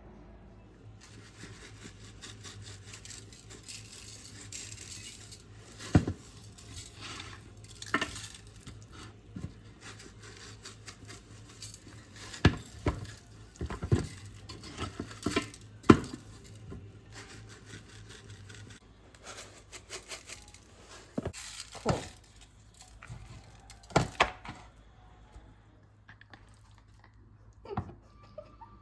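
Kitchen food-prep sounds: irregular knocks and clinks of dishes and utensils over a steady hiss and a low hum.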